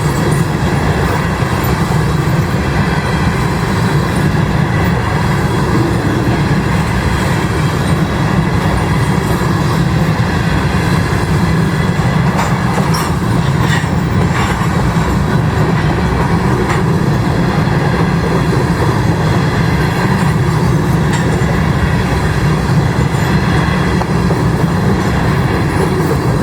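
Freight cars of a grain train rolling past steadily, a continuous low rumble of steel wheels on rail with some clickety-clack over the joints.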